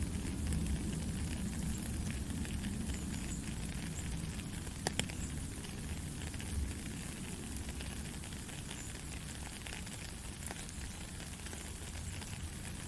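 Heavy rain falling steadily, a dense patter of drops with a low rumble underneath. A couple of sharper drip clicks come about five seconds in.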